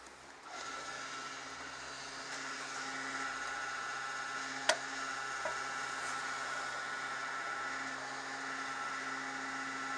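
Steady machine hum with a faint whine, starting about half a second in, with a single sharp click about halfway through.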